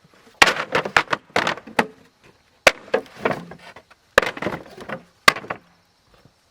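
Chopping: three flurries of sharp blade strikes on wood, each a cluster of several quick blows, with short pauses between.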